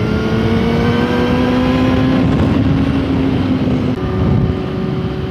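Yamaha motorcycle engine running under way, its note rising slowly, then changing about four seconds in, over a steady rush of wind.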